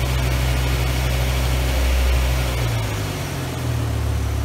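BMW S85 5.0-litre V10 idling steadily while the ISTA VANOS system test runs; its low note shifts and dips briefly about three seconds in, then settles again.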